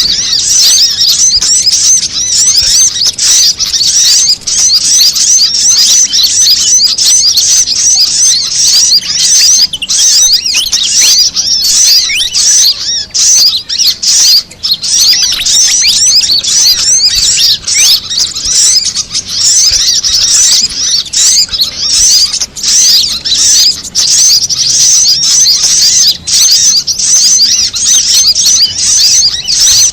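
Bird-lure recording of fantail calls layered with sunbird calls: a loud, dense jumble of rapid, high chirps and twitters overlapping without a break.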